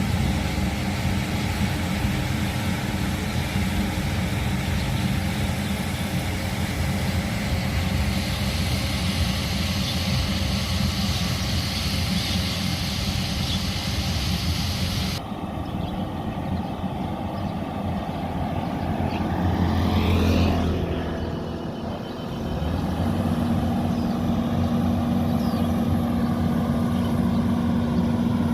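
An engine running steadily, with a low drone. About halfway through the upper part of the sound drops away suddenly, there is a brief swell a few seconds later, and after that a steady hum holds.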